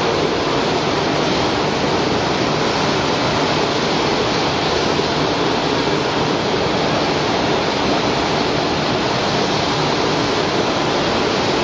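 Welded steel tube production line running: a steady, loud, even rushing noise with no distinct rhythm or beat.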